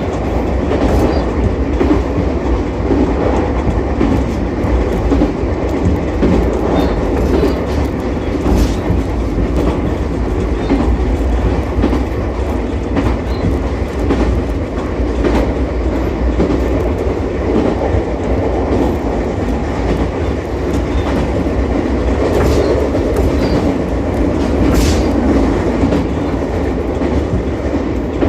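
Ichibata Electric Railway 7000-series electric railcar running steadily along the line, a continuous rumble with wheels clicking over rail joints now and then.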